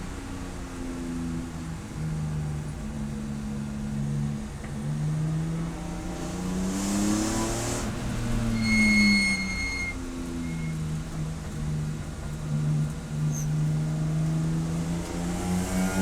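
Race car engine running on track, its pitch held steady for stretches and then climbing and falling again as it speeds up and slows. A short, high, steady beep sounds about halfway through.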